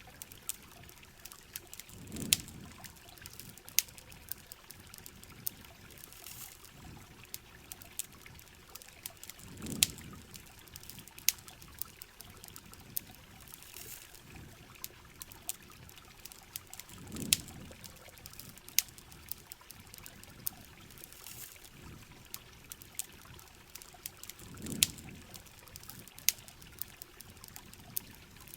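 Campfire crackling with sharp irregular pops over the steady hiss of heavy rain. A low whooshing swell comes back about every seven and a half seconds, four times.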